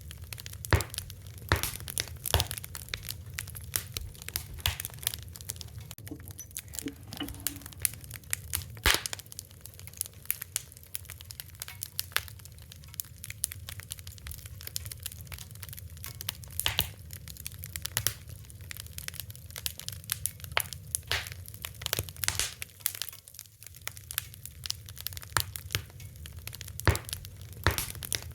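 Wood fire crackling: irregular sharp pops and snaps, some louder than others, over a steady low rumble of the burning fire.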